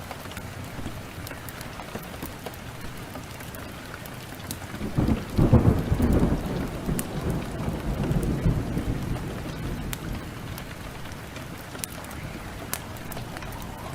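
Heavy downpour with a steady hiss, and a clap of thunder about five seconds in that rumbles on for several seconds before fading. Sharp crackles of a wood fire are scattered through it.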